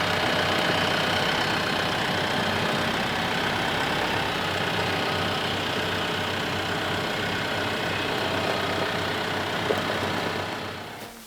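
Tractor diesel engine running steadily, then fading out near the end.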